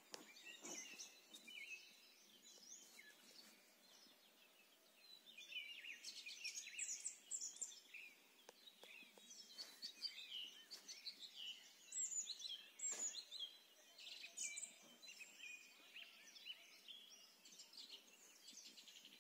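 Several songbirds singing and chirping in quick, high notes that rise and fall, busier from about five seconds in.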